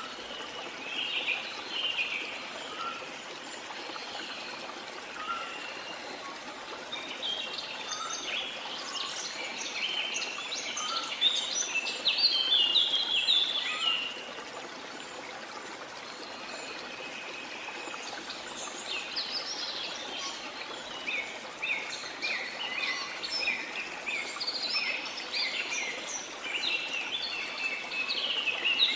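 Birds singing and chirping in dense overlapping phrases over a steady rush of falling water; the birdsong thickens about a third of the way in and again in the last third.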